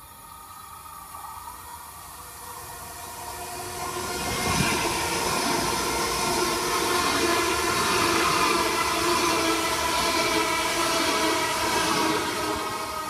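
A train passing close by: the rumble and hiss of wheels on rail grow louder over the first few seconds, stay loud with a steady whine, and drop off sharply at the very end.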